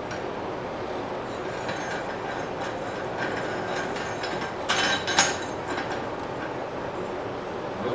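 Steady rushing of a blacksmith's forge, with two sharp clanks of steel on steel about five seconds in.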